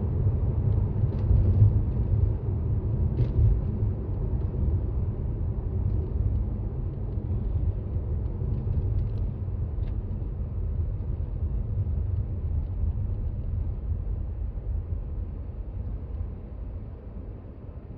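Steady low rumble of a Toyota Raize SUV driving on a snowy road, heard from inside the cabin: tyre and engine noise, easing off slightly near the end. A few faint short ticks sound over it.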